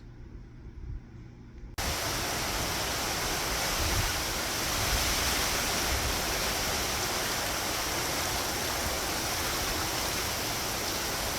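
Heavy hurricane rain and wind, a loud steady hiss of pouring, wind-driven rain that comes in suddenly about two seconds in, with low gusty rumbles.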